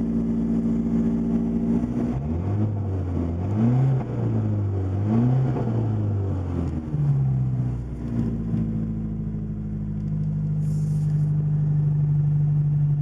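1980 Porsche 924 Turbo's turbocharged four-cylinder engine, through a 2.5-inch straight-pipe exhaust, idling, then revved up and down about three times over a few seconds before settling back to a steady idle.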